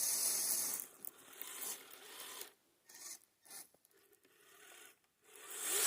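Radio-controlled crawlers on plastic tracks grinding through snow: a rasping scrape of tracks and gears. It is loudest for about the first second, then comes in short spurts with quiet gaps between them.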